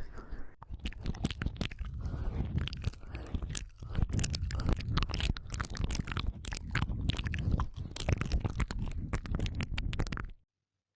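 Close-miked crunching and crackling: a dense, irregular run of crisp clicks over a low rumble, cutting off abruptly near the end.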